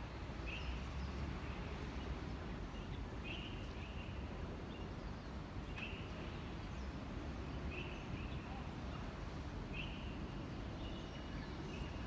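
A bird calling over and over, a short high note about every two seconds, over a steady low hum of background noise.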